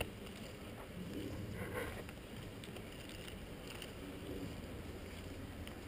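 Steady low rumble and handling noise on a helmet-mounted action camera, with one sharp click at the very start and a few faint rustles.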